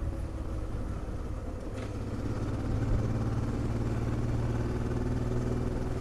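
Honda Transalp XL650V's V-twin engine running steadily at low revs, a low even engine note.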